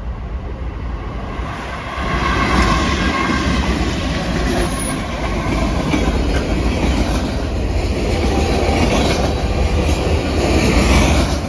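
Norfolk Southern train rolling past on the rails, its cars' wheels running over the track; it grows louder about two seconds in and then stays loud.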